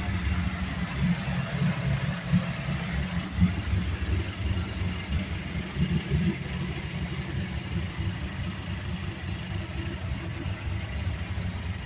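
Chevrolet Caprice's engine idling steadily, a low pulsing rumble.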